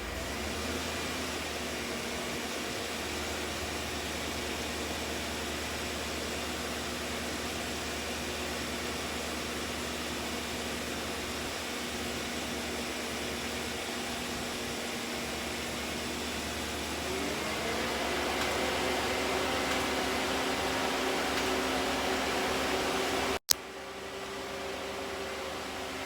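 A car engine running steadily while jumper cables charge a dead battery. About two-thirds of the way in, its hum rises a little in pitch and gets louder. Near the end there is one sharp click.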